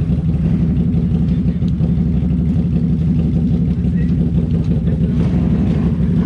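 ATV engine running steadily at a constant pace under way.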